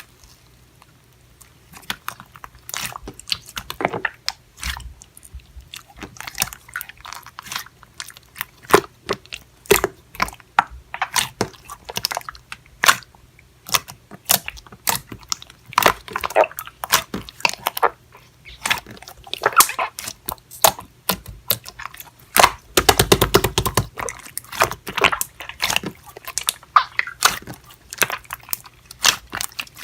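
Close-miked crunching and chewing: many irregular crisp bites and chews, with a quick dense run of crunches about two-thirds of the way through.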